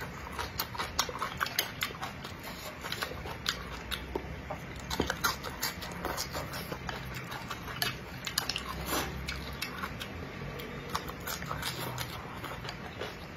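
A person eating stir-fried Jiangxi rice noodles close to the microphone: wet chewing with many uneven, sharp mouth clicks and smacks, several a second.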